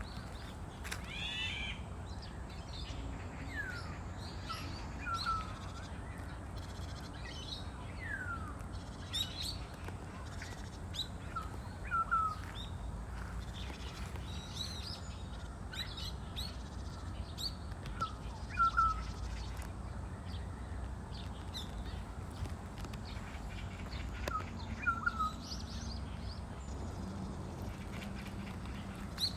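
Birds calling outdoors: scattered short chirps and quick sliding notes, with one short two-note call repeating every six or seven seconds, over a steady low background rumble.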